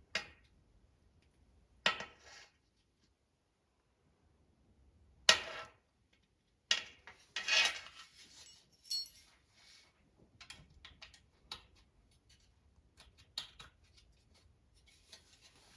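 Clips being popped onto a cut plastic rocker panel piece: sharp snaps and clicks with the clinking of small metal parts. A handful of louder snaps come in the first half, then lighter ticking and clinking of handling.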